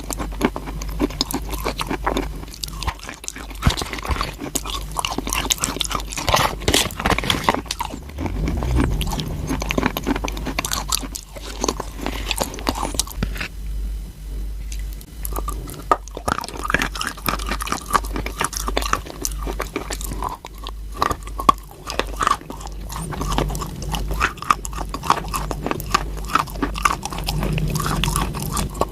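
A person biting and chewing crunchy chalk close to the microphone, with dense crackling crunches and a short lull about halfway through.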